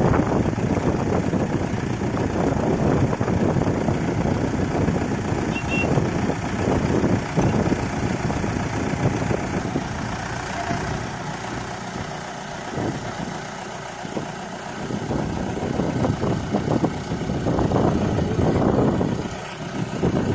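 Mahindra Yuvo tractor's diesel engine running steadily. The sound eases off somewhat around the middle and builds up again toward the end.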